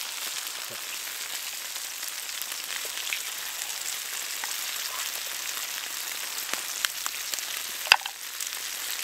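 Sausages, bacon, black pudding and mushrooms sizzling steadily in two cast-iron skillets, with one sharp tap near the end.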